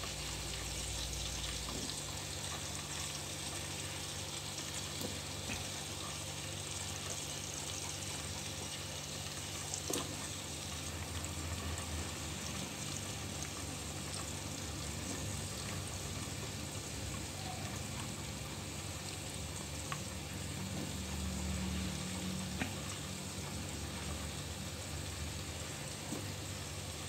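Shallots and red chilies frying in oil in an electric rice cooker's inner pot: a steady sizzle, with a few faint clicks.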